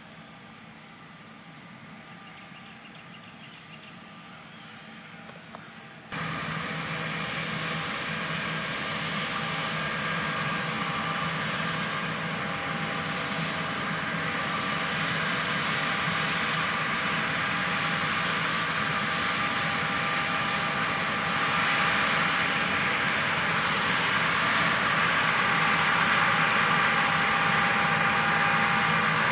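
A faint steady hum, then about six seconds in a sudden jump to the loud, steady running of a John Deere S670 combine harvesting soybeans, growing slowly louder.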